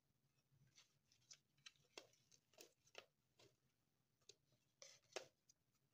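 Near silence with faint chewing of bread: about a dozen soft, irregular mouth clicks, the loudest near the end.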